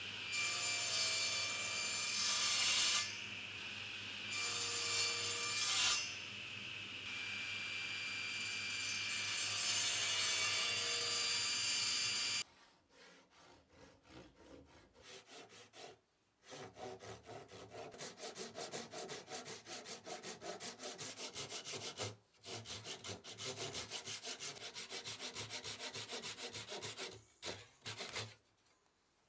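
A table saw running, its blade cutting through beech in three loud passes, then shutting off about twelve seconds in. After that, a Japanese pull saw cutting beech by hand in quick, even strokes, with a few short pauses.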